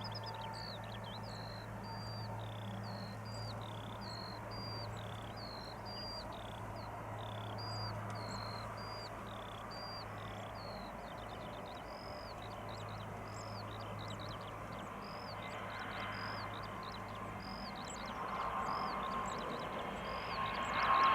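A small bird chirping over and over, one to two short high chirps a second, above a steady low hum. Near the end the Airbus A320neo's jet engines rise as the airliner powers up for its takeoff run.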